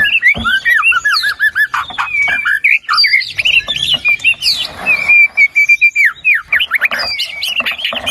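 White-rumped shama (murai batu) singing a loud, fast, varied song of whistles and trills, mixing in mimicked phrases of other birds. About a second in there is a quick run of repeated notes, and in the middle a held, steady whistle.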